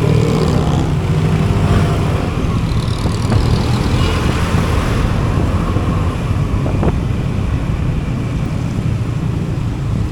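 Vehicle engines and road traffic noise as the traffic gets moving again after a jam.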